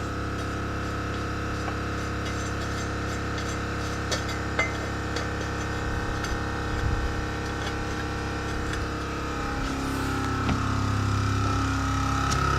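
Dual-head air-suspension compressor running with a steady hum as it fills the air tank and bags, growing louder about ten seconds in; a few light clinks.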